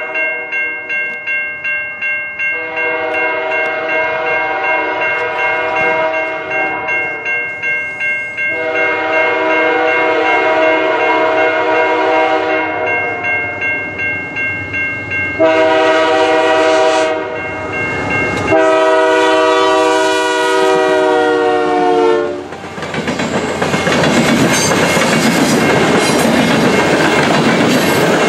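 A level-crossing bell dings steadily while CP's GE AC4400CWM diesel locomotive 8002 sounds its horn in the grade-crossing pattern: two long blasts, a short one, then a long one. After the last blast the locomotive and its grain hopper cars pass close by, with rumbling and wheel clickety-clack.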